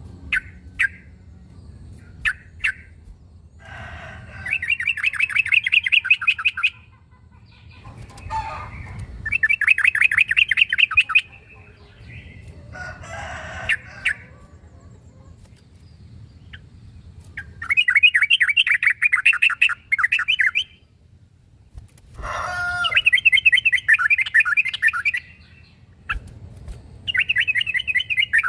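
Yellow-vented bulbul (trucukan) song: fast, bubbling chattering phrases of two to three seconds each, repeated about five times with short pauses between. This is the territorial call used to provoke a rival.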